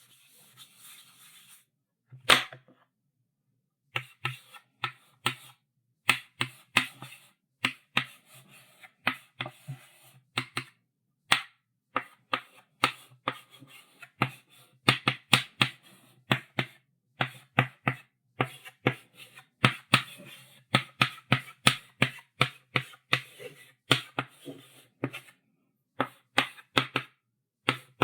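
Chalk on a blackboard: a faint scrape of a stroke, then one sharp tap, a short pause, and a long run of quick chalk taps and short strokes, often two or three a second.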